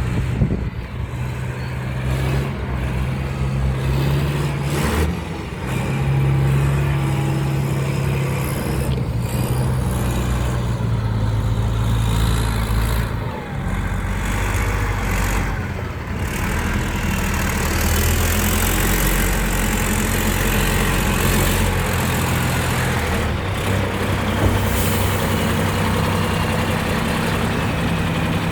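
Heavy diesel engine of earthmoving machinery running under changing load, its pitch shifting up and down, with a few short sharp knocks.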